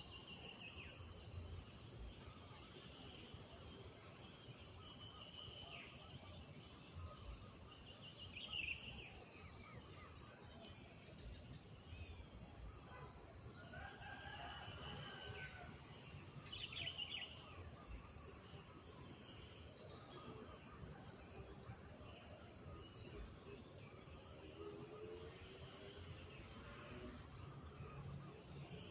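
Village morning ambience: insects keep up a steady high-pitched drone, while birds give short chirping calls every few seconds, with a few lower calls in between.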